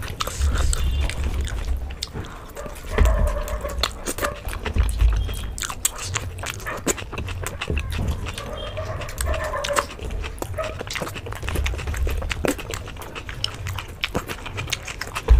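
Close-up eating sounds of people chewing bhature and chickpea curry: many small wet mouth clicks and smacks, with low thumps. Two short arching whine-like pitched sounds come about 3 and 9 seconds in.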